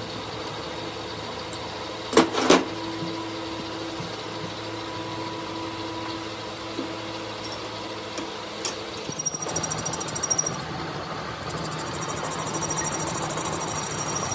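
A machine running steadily in a workshop, with two sharp metal knocks about two seconds in. About nine seconds in the sound changes to a different machine noise with a high thin whine.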